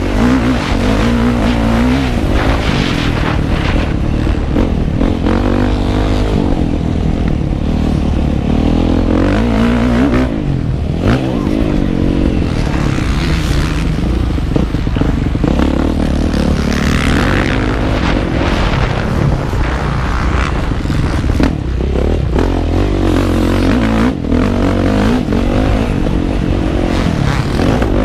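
Motocross motorcycle engine heard on board while riding a track, the revs rising and falling over and over as the rider accelerates and backs off.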